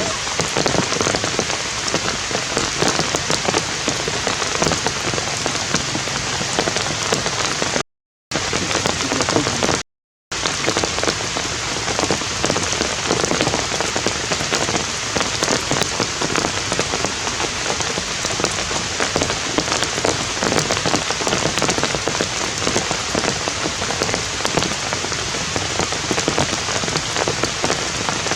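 Steady heavy rain falling, a dense hiss of many drop impacts, with two brief complete dropouts about eight and ten seconds in.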